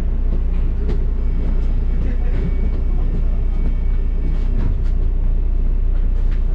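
Steady low rumble of a London double-decker bus under way, heard inside the cabin, with a faint high whine in the middle and light rattles.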